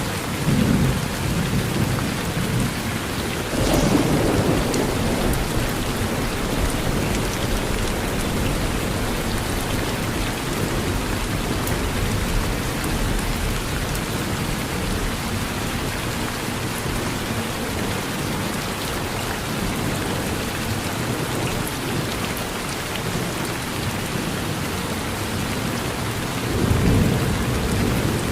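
Steady rain falling on a porch, with thunder rumbling low three times: just after the start, about four seconds in, and near the end.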